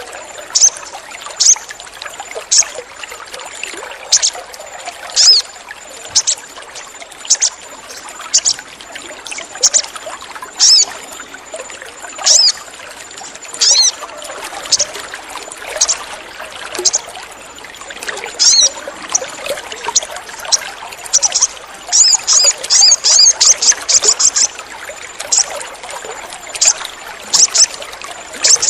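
Little spiderhunter (sogon) calling: sharp, high chirps repeated about once a second, bunching into a quick run of chirps about two-thirds of the way through. Under it runs a steady trickle of water.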